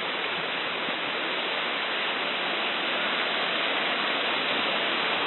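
Floodwater from a burst dam rushing past in a steady, loud, unbroken roar of water.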